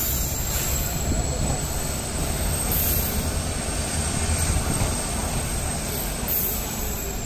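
Passenger express train coach rolling into a station as it brakes: a steady low rumble of the running gear with a high, thin squeal from the wheels and brakes held over it.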